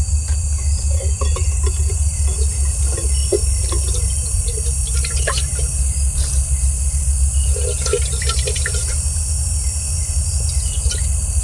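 Water heating in a pot over a camp fire, a steady rushing with scattered crackles and ticks; a steady high insect trill runs behind it.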